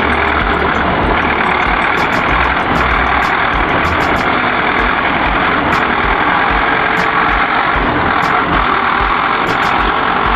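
Heavy truck engine running steadily, with a low pulsing underneath.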